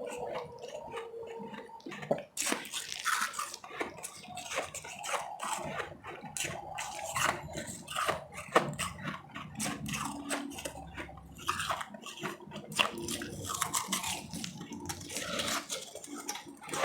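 Powdery refrozen ice being bitten and chewed up close to the microphone: a continuous run of crisp ice crunches.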